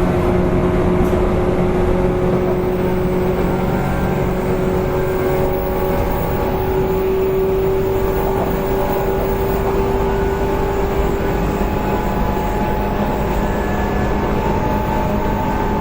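JR East 185 series electric train's motor car running at speed: the traction motors whine at a nearly steady pitch over a steady roar of wheels on rail. The whine shifts in pitch about eleven seconds in.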